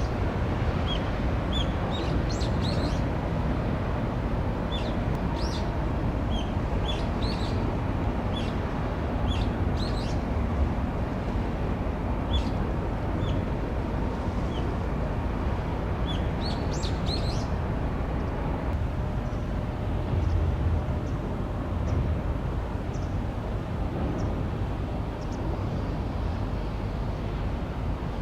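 Small birds chirping: many short, high calls, dense for the first two-thirds and sparser near the end, over a steady low rumble.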